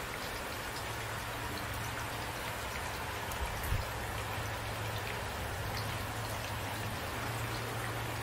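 Steady rain falling, with scattered drops ticking on a surface and a soft low thump about three and a half seconds in.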